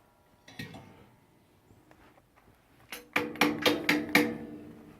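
A quick run of about six sharp metallic knocks on a wood stove, three seconds in, followed by a low ring from the stove's metal body that fades slowly.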